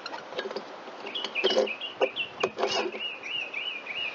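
A bird singing a continuous run of quick warbling notes, starting about a second in. A few sharp clicks and knocks of small parts being handled are heard alongside.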